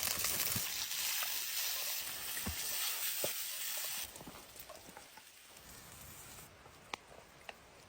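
A sizzling hiss, loud for about four seconds and then falling away to a faint hiss, with a few light clicks.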